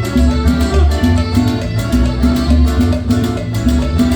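Live Latin dance band playing an instrumental passage with a steady beat and repeated bass notes.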